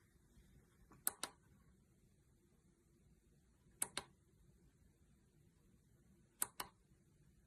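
Three sharp double clicks, evenly spaced about two and a half seconds apart, over near silence.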